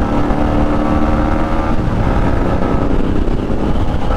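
Motorcycle running at road speed during a ride. A steady engine tone sounds over a constant low rumble and fades about two seconds in.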